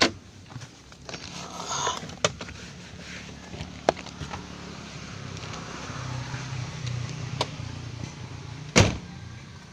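1984 Mercedes engine idling with a steady low hum while it warms up. A few sharp clicks cut through it, and there is one loud knock near the end.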